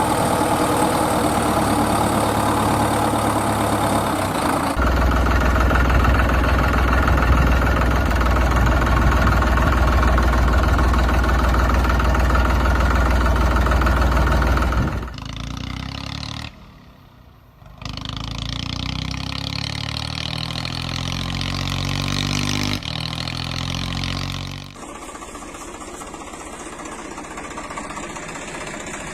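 Diesel engines of heavy machinery, tractors or a backhoe loader, running and idling in a string of separate clips that cut abruptly several times. The sound is loudest for the first 15 seconds, then quieter, with a brief drop about 17 seconds in.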